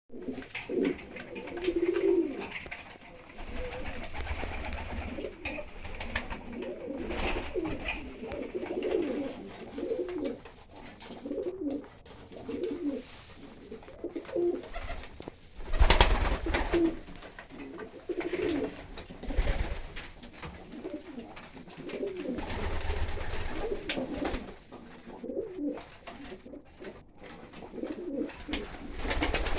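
Capuchin pigeons cooing, low calls repeating throughout. About halfway through there is one brief, loud sharp sound.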